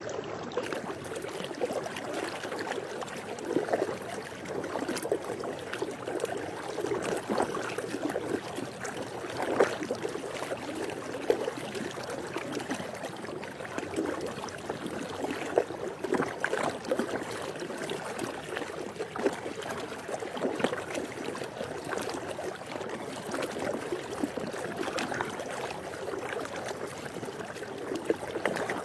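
Swimming pool water lapping and splashing continuously, with many small irregular splashes over a steady wash.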